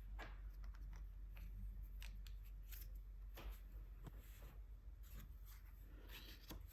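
Faint, irregular small clicks and short scraping strokes from handling gouache paint materials and paper.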